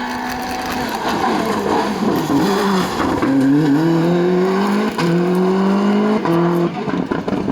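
Rally car engine under hard acceleration, getting louder over the first couple of seconds as it approaches; the revs climb, drop briefly and climb again with each gear change.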